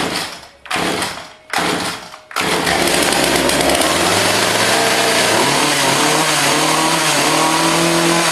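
Poulan Pro two-stroke chainsaw cold-started by pull cord: three short bursts as it is pulled, then it catches about two and a half seconds in and runs steadily, its pitch creeping up.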